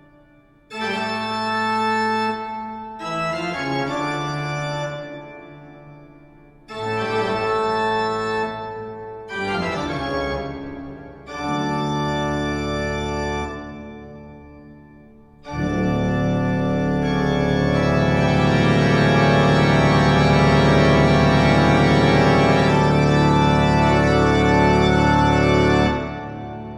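Spooky organ music: five held chords separated by short gaps, then a long, louder full chord held for about ten seconds that ends near the close.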